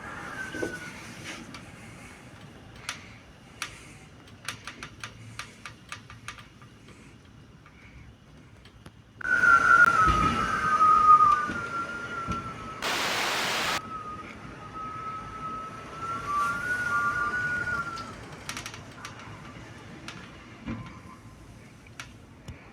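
Gale-force wind whistling, a high wavering tone over a low rumble, rising sharply about nine seconds in and dying away after about eighteen seconds. Scattered clicks and rattles come earlier, and a short hiss of wind on the microphone comes in the middle.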